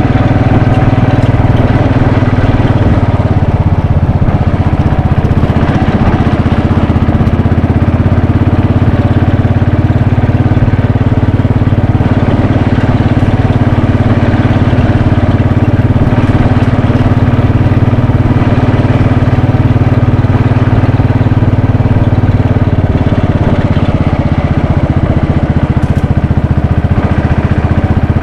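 Royal Enfield Bullet 500's single-cylinder engine running steadily, with a slight easing in level a little past three-quarters through.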